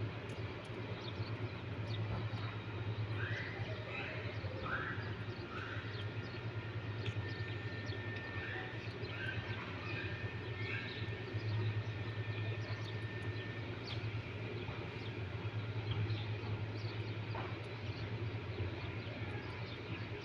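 Birds calling in short chirps, clustered a few seconds in and again around the middle, over a steady low rumble. A thin, steady high tone holds for several seconds in the middle.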